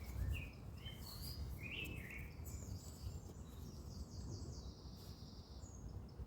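Small songbirds singing: a few short chirps in the first two seconds, then a fast, high trill of repeated notes lasting about three seconds, over a low steady rumble.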